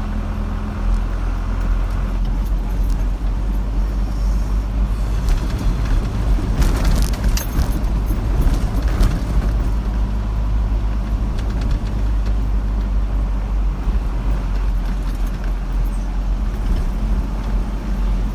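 Car road noise heard from inside the cabin while driving: a steady low rumble of engine and tyres. From about six and a half to nine and a half seconds in there is a brief jingling rattle.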